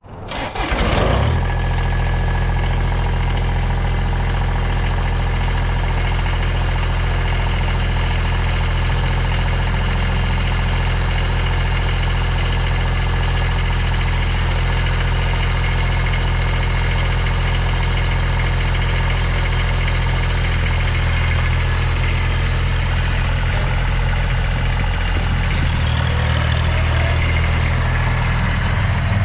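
Kubota BX2200D compact tractor's three-cylinder diesel engine running steadily at idle, with a slight change in engine note about 25 seconds in.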